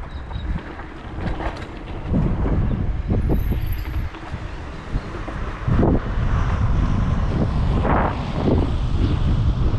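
Wind buffeting the microphone of a camera riding on a moving bicycle: a low rumble with irregular gusts and thumps, louder from about six seconds in.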